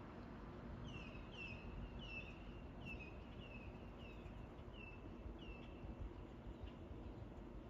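A bird calling: a series of about eight short chirps, each falling in pitch, roughly one every two-thirds of a second, starting about a second in and stopping about two seconds before the end. Under them is a faint, steady low background noise.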